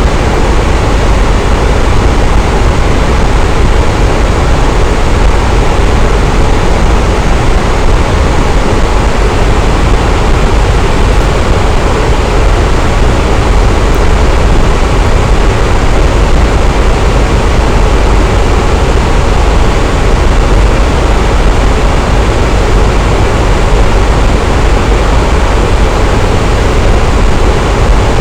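Electric fan running steadily: a constant whooshing rush of air, heaviest in the low end, with no change in speed.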